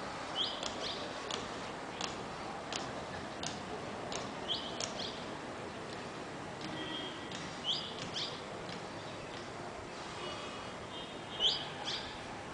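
Birds chirping: a short rising call repeated four times, every three to four seconds, with quick sharp chirps in between, over steady outdoor background noise.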